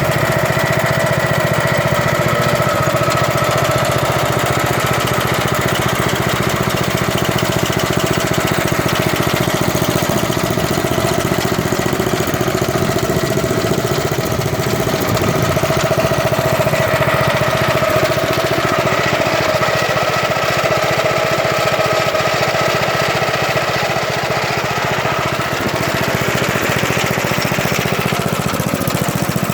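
16 hp Briggs & Stratton engine of a 1970s Montgomery Ward garden tractor running steadily, with a steady whine above the engine note.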